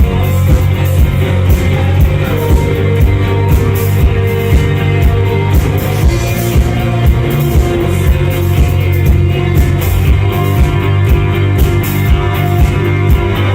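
Live rock band playing: drums keep a steady beat, about two hits a second, under electric guitars and bass.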